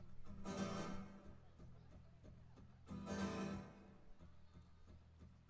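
Guitar playing an instrumental passage between sung verses: two full chords struck about two and a half seconds apart, each ringing out and fading.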